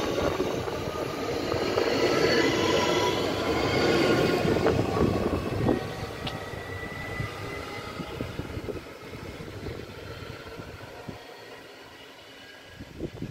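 ODEG electric multiple unit pulling away along the platform, its wheels and running gear rumbling with faint high squealing tones. The sound fades steadily as the train draws off into the distance.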